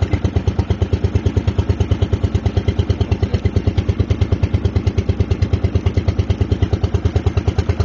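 Boat engine running steadily with an even, rapid thudding beat of about ten strokes a second.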